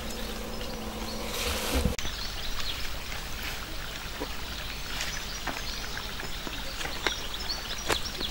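A flying insect buzzing close by as a steady hum, which stops abruptly about two seconds in. Scattered light clicks and taps follow.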